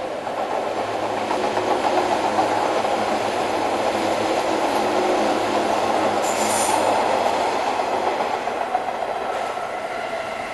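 A JR 485-series electric train passing at speed: a steady rumble of wheels on rail, with a brief high-pitched sound about six and a half seconds in. The noise fades near the end as the last car goes by.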